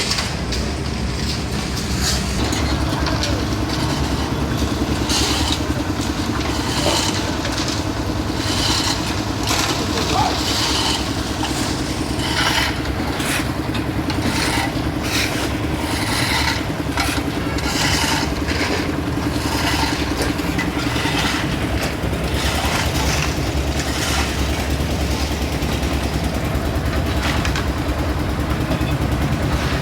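An engine-driven construction machine running steadily, its hum steadying about two seconds in, with repeated scraping and clattering over it.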